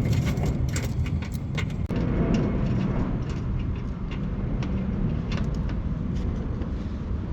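Small scattered clicks and taps of hand tools undoing the bumper's screws and fasteners, over a steady low rumble.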